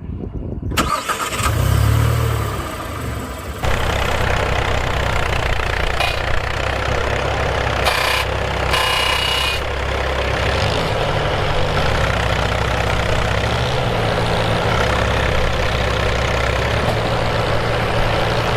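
Massey Ferguson 35 tractor engines running steadily under load in deep mud, the note shifting a little now and then as one tractor tows the other free. Near the start, a separate engine briefly revs up and drops back before a hard cut.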